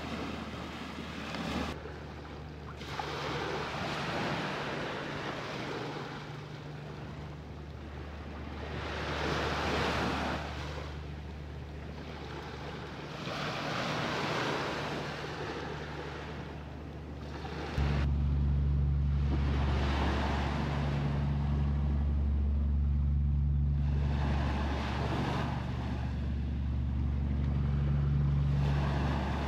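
Waves breaking on the shore, the surf swelling and falling back every few seconds. Under it runs a steady low hum that suddenly gets louder about two-thirds of the way through.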